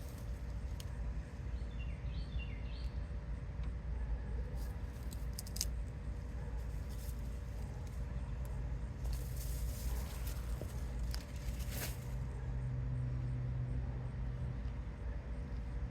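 Outdoor backyard ambience: a steady low rumble of distant traffic and a bird chirping briefly about two seconds in. Scattered rustles and crackles around the middle come from hands digging through soil in a potato grow bag.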